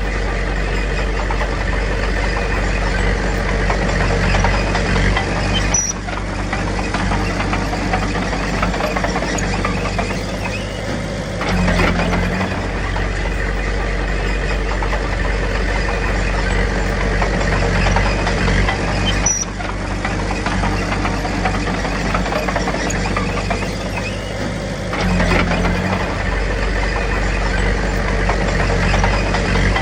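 Diesel engine of a Komatsu D21P bulldozer running steadily under load, its note dipping and picking up again about every six or seven seconds as it works back and forth.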